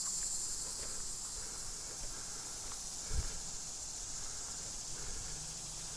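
Steady high-pitched drone of insects in the woods, with one short low thump about three seconds in.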